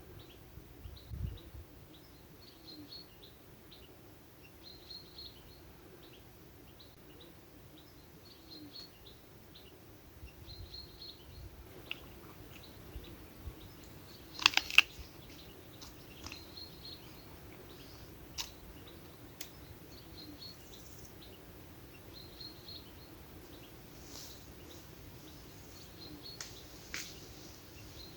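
A small bird singing a short chirping phrase over and over, about once every two seconds. Scattered sharp clicks and taps come in, with a loud cluster about halfway through.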